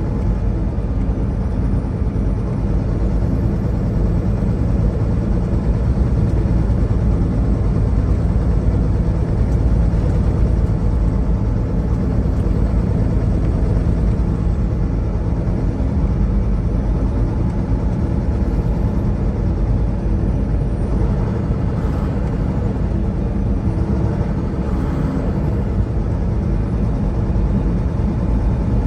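Semi truck driving along: a steady low engine drone mixed with road noise.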